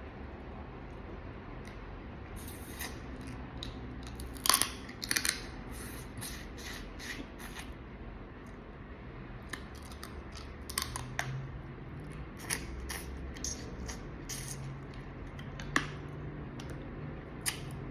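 Close-miked eating during a crawfish meal: a run of sharp cracks and crunches, dense in the first half and loudest about four and a half seconds in, then scattered single clicks.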